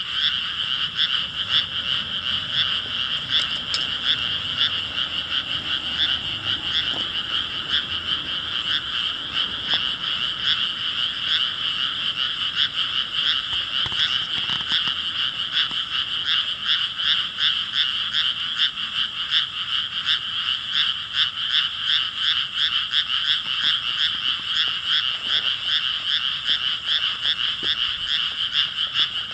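Chorus of many frogs calling at once: dense, rapid, overlapping pulsed croaks at a steady, unbroken level.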